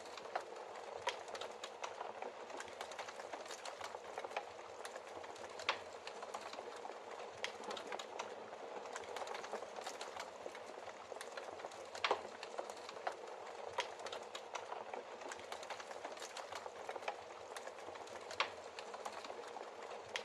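Wood fire burning in a fireplace: a steady hiss of flames with logs crackling and popping irregularly, a few louder pops standing out.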